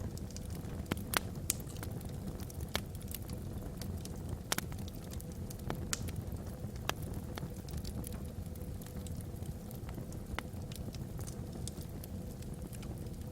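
Wood logs burning in a fireplace: a steady low rumble of flame with scattered, irregular sharp crackles and pops.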